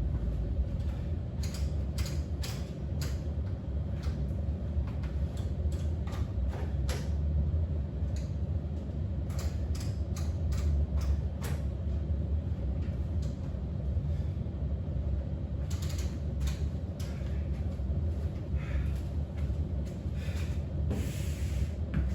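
Scattered clicks, knocks and creaks of objects being handled, over a steady low hum.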